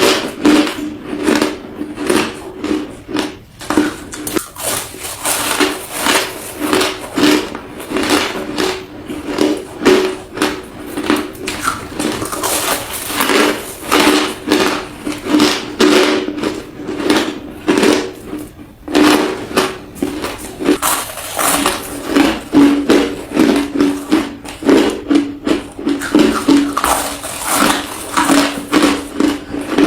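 Close-up crunching of crushed ice being bitten and chewed, a quick run of crisp crunches about two or three a second, over a steady low hum.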